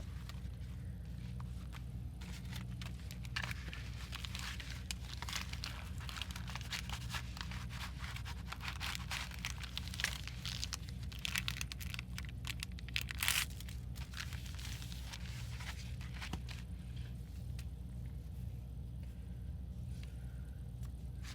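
Paper and packing materials being handled: crinkling, rustling and tearing, busiest in the first two-thirds, with the loudest crackles about 13 seconds in. Underneath runs a steady low hum.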